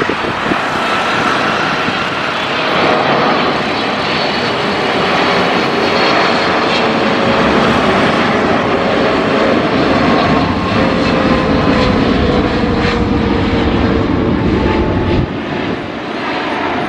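Passenger airliner's engines running as it passes, a loud steady roar with whining tones that slowly fall in pitch. Near the end the roar drops off suddenly.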